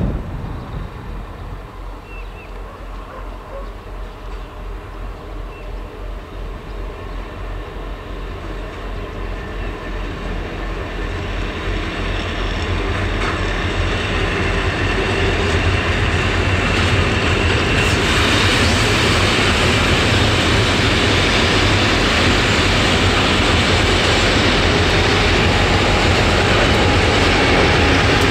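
Freight hopper wagons rolling slowly over the rails with an even, pulsing clatter from the wheels. From about ten seconds in, the two-stroke, Roots-blown diesels of two EMD G26CW locomotives (HŽ 2062 class) grow louder, and they run loudly and steadily as they come alongside.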